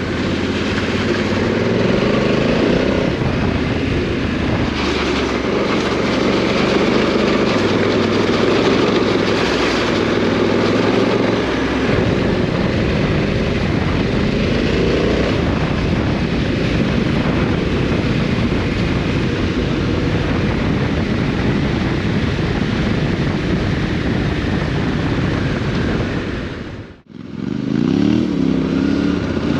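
Adventure motorcycle's parallel-twin engine under way off-road, its revs stepping up and down, with a steady rush of wind and tyre noise. Near the end the sound cuts out briefly, and the engine comes back revving up and down.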